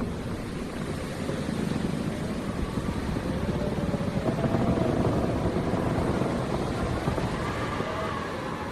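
Howling wind gusting around a barn: a steady low rumble with thin whistling tones that waver up and down in pitch.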